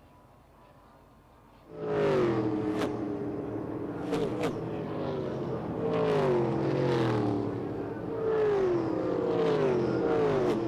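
Race car engines at speed, coming in suddenly about two seconds in after a quiet start: several stock cars running past one after another, each engine note falling in pitch as it goes by.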